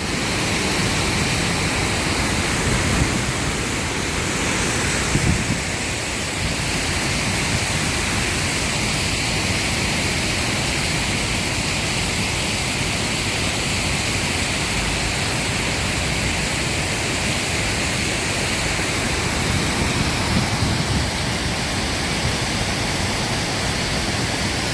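Waterfall pouring into a pool, a steady, even rush of water.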